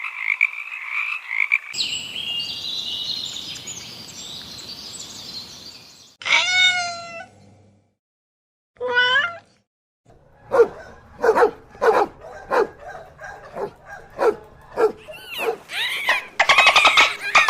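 A succession of different animal calls: frog croaking for the first second and a half or so, then high chirps, two drawn-out calls that bend in pitch, and a run of short calls repeated about twice a second.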